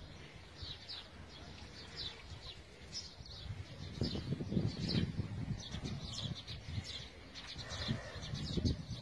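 Small birds chirping in a run of short, high, repeated chirps. From about four seconds in, low rumbling noise joins them.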